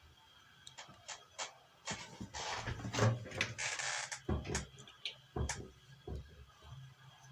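Clicks, rustling and a few dull knocks of hands handling small parts and tools on a workbench, with a denser rustle about two seconds in.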